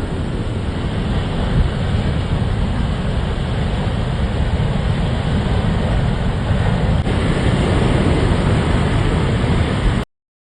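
Loud, steady rushing noise, heaviest in the low end, that cuts off abruptly near the end.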